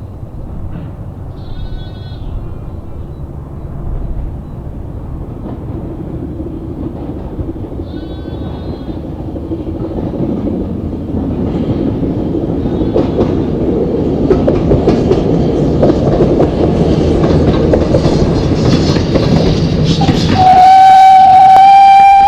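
Steam locomotive approaching, its running noise growing steadily louder, then sounding its whistle in one long steady blast for the last couple of seconds.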